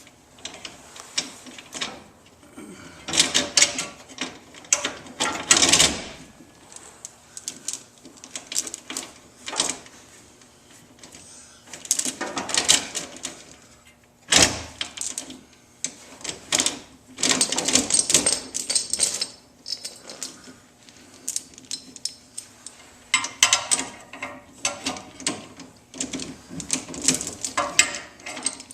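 Steel tie-down chain clinking and rattling in several bursts of jangling as it is handled and wrapped around the car's frame or leaf spring, with quieter gaps between.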